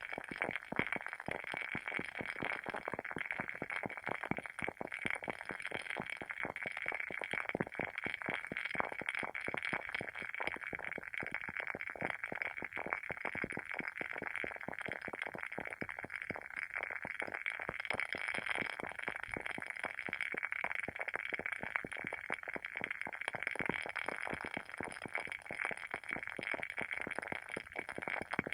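Wooden wick of a WoodWick candle burning with a dense, continuous crackle of tiny pops, like a small fire.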